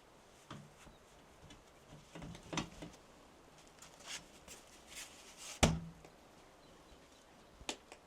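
Scattered knocks and clicks of objects being handled, the loudest a sharp knock about five and a half seconds in with a short low ring after it.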